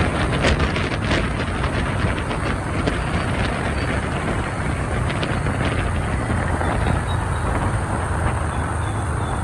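Steady traffic noise heard while riding a motorbike through city streets: engine and road noise, with a few short clicks in the first few seconds.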